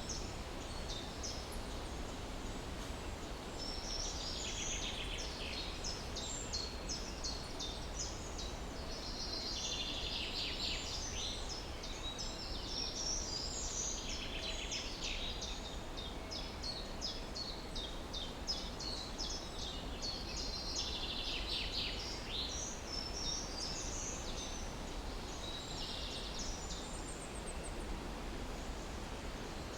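Songbirds singing, a quick high chirping phrase every few seconds, over a steady low background noise.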